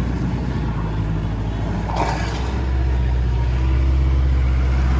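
Off-road vehicle's engine running steadily while the vehicle sits in deep water, getting a little louder shortly before three seconds in. A brief burst of noise comes about two seconds in.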